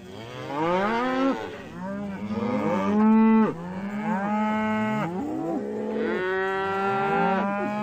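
Cows mooing: several long, overlapping moos, many of them falling in pitch as they end.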